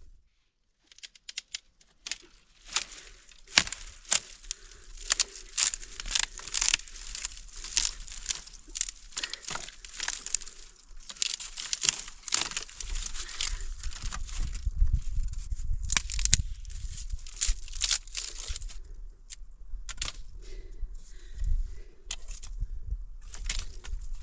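Irregular crackling and rustling, many sharp clicks in quick, uneven succession, with a low rumble joining about halfway through.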